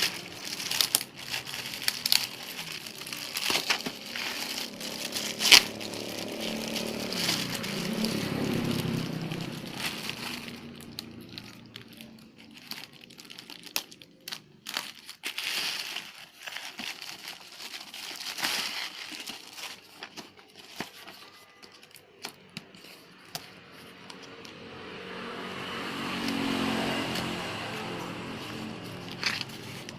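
Plastic packaging crinkling and crackling in irregular bursts as it is handled and unwrapped. A low hum swells and fades twice, about a third of the way in and near the end.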